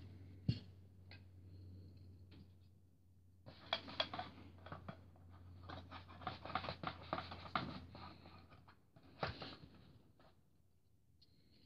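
Hands handling a boxed model airplane and its packaging: scattered clicks, scratching and rustling, with a sharp click about half a second in and another near the end.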